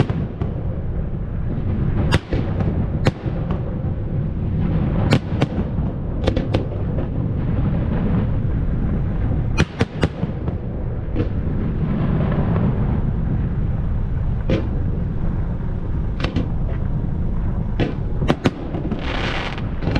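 Fireworks display: sharp bangs of shells bursting every second or so over a continuous low rumble, with a short hiss near the end.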